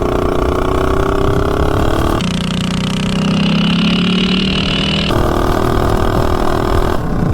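Predator 212 single-cylinder engine with a header pipe, on a Coleman CT200U-EX mini bike, running at full throttle through a 0-to-30 mph acceleration run, its pitch climbing slowly. The tone changes abruptly a couple of times.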